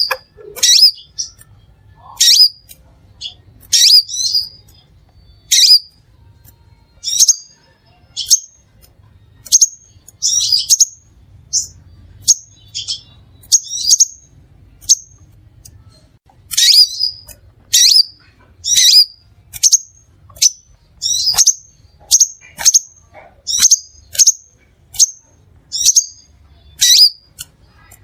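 Crimson sunbird calling: a steady run of short, sharp, high chirps, roughly one a second, many of them quick downward sweeps.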